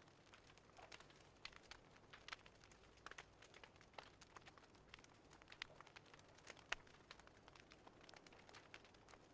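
Wood fire crackling faintly, with irregular sharp snaps and pops.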